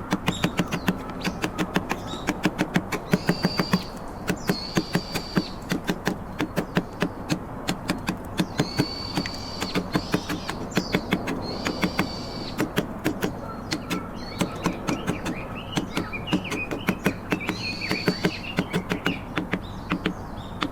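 Mallet striking a carving chisel into trembesi wood in quick, uneven taps, several a second, with birds chirping.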